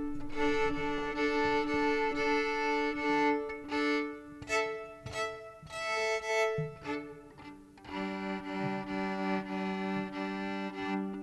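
Fiddle being tuned: two open strings bowed together at a time in repeated short strokes, the upper pair for most of the time, then a lower pair from about eight seconds in.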